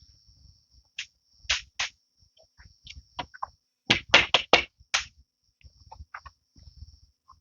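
Irregular sharp knocks or taps, a quick run of four about four seconds in, over a faint steady high-pitched buzz.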